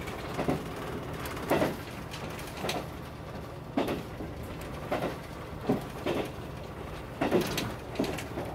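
Train running at speed, its wheels clacking over rail joints about once a second, sometimes in quick pairs, over a steady running rumble.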